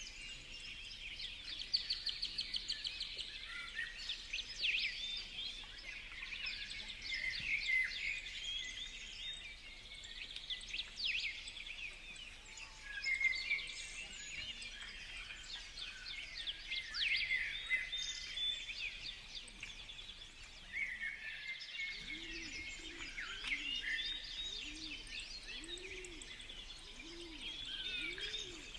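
Many songbirds chirping and calling over one another. From about three-quarters of the way in, a pigeon cooing in a low repeated series underneath.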